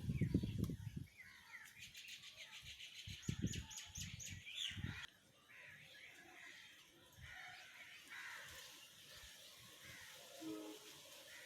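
Small birds chirping and twittering, with a fast run of high chirps that stops suddenly about five seconds in, then quieter scattered calls. Low thumps on the microphone in the first half.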